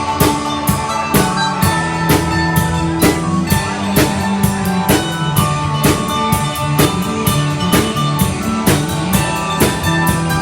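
Rock band playing live: a drum kit keeps a steady, driving beat under held bass and electric guitar notes.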